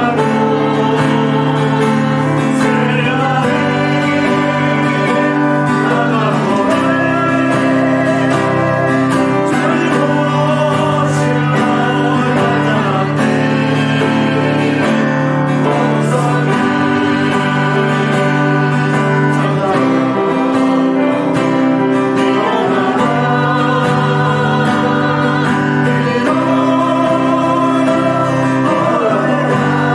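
Church praise team singing a worship song, accompanied by guitar and other instruments, with a steady sustained accompaniment.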